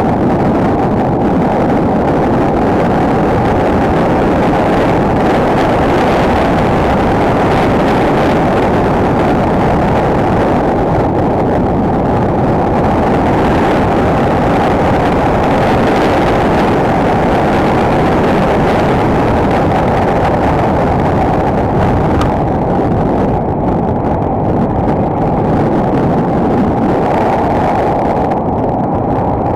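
Enduro motorcycle engine running steadily under way, heard muffled through an action camera's mic, with wind rushing over it.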